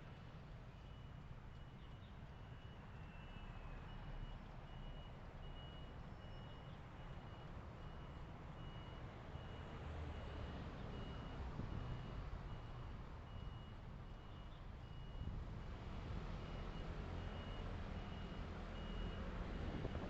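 A vehicle's electronic warning beeper sounding a high, even beep about once a second, over the low rumble of engine and road noise.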